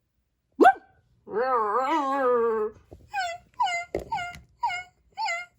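A dog whining and yelping: a short cry, then a long wavering whine, then a run of short high yelps about two a second, each falling in pitch.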